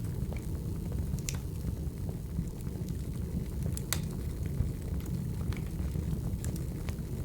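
Wood fire burning with a steady low rumble of flames and irregular sharp crackles and pops as the logs burn. The loudest pop comes about four seconds in.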